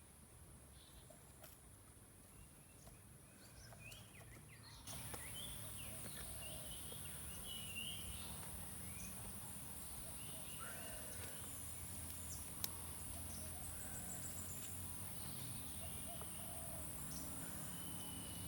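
Outdoor ambience: birds chirping in short, scattered calls over a steady high insect drone, growing louder about five seconds in.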